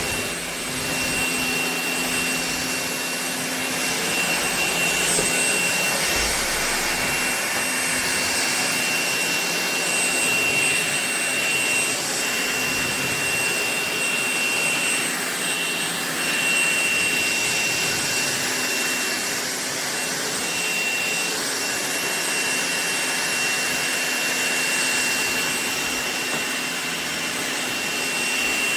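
Ultenic U16 Flex cordless stick vacuum running steadily: a continuous rush of air with a high, steady motor whine.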